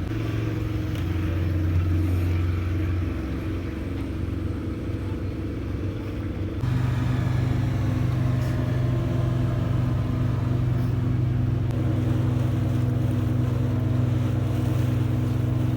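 Wooden boat's engine running steadily, with an abrupt jump to a louder, steady hum about six and a half seconds in.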